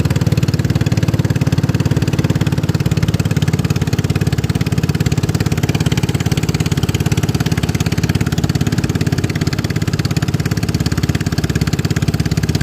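Boat engine running loud and steady at an unchanging speed, close to the microphone.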